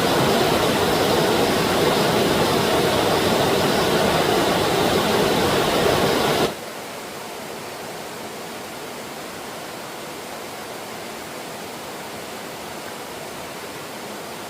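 Rushing stream water: a loud, steady rush that drops suddenly to a quieter, steady flow about six and a half seconds in.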